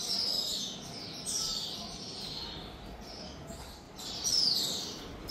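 Birds chirping: several high calls, each sliding down in pitch, repeating every second or so over a faint background hum.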